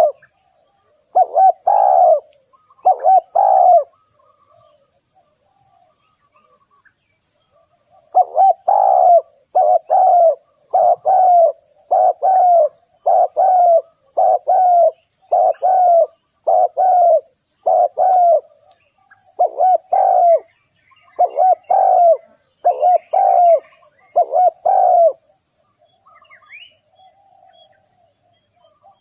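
Spotted dove cooing: a series of low coos about one a second. Two come near the start, then after a pause a long steady run, which stops a few seconds before the end.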